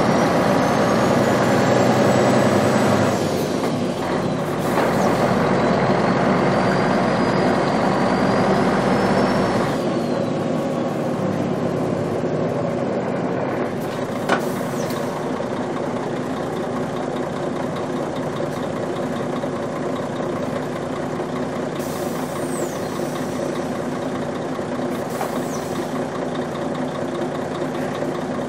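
Truck engine pulling under load, with a high whine that rises, falls back about three seconds in as the revs drop, and rises again. About ten seconds in it eases off to a quieter, steady run, with one sharp click midway and two brief hisses near the end.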